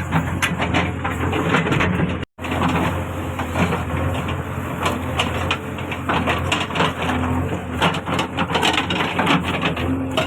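Heavy earthmoving machine's diesel engine running steadily, with many crunching and knocking sounds from digging. The sound drops out completely for a moment about two seconds in.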